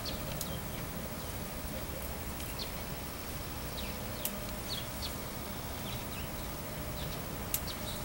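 Small birds chirping faintly, a dozen or so short, scattered notes, over a steady low outdoor background hum. A few sharp clicks stand out, about half a second in, near the middle and near the end.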